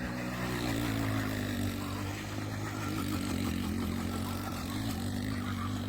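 A vehicle engine running steadily, its pitch wavering a little up and down.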